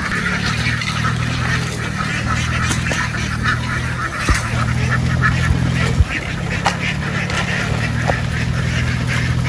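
A large flock of domestic ducks quacking continuously as a dense, overlapping din. A steady low engine hum runs underneath, with a couple of brief knocks near the middle.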